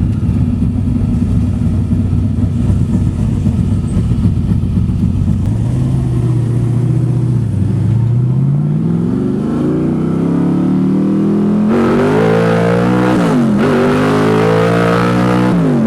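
Carbureted 427-cubic-inch small-block Chevy V8 in a 1969 Camaro with a 4-speed manual. It runs at a steady rumble for about five seconds, then revs up hard under acceleration, with two quick pitch drops near the end as it shifts up through the gears.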